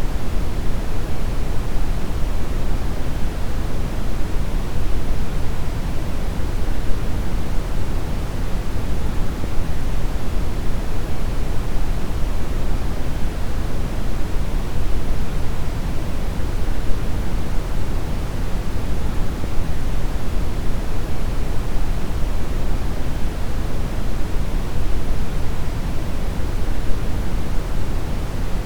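Deep brown noise: a steady, even rumble of random noise weighted heavily toward the low end, with no changes or events.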